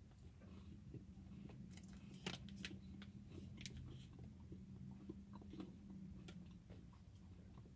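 Faint chewing of a mouthful of Lucky Charms Treats bar, a crisp rice and marshmallow bar, with scattered small crunches.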